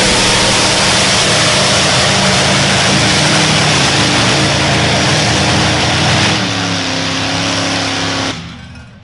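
A pulling vehicle's engine running hard and loud under load. Its pitch drops about six seconds in, and it cuts off abruptly near the end.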